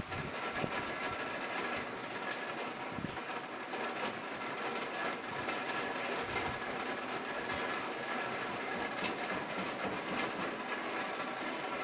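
Wind and rain in a storm: a steady dense patter of raindrops with rushing wind, holding at an even level throughout.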